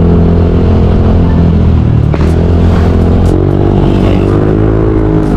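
Motorcycle engine running as the bike rides along, its pitch rising a little about three seconds in as it speeds up, with low wind rumble on the camera microphone.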